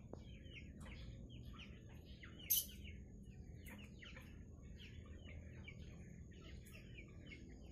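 Birds chirping in quick, repeated short calls, with one sharp, much louder call about two and a half seconds in. A faint, steady high-pitched tone runs underneath.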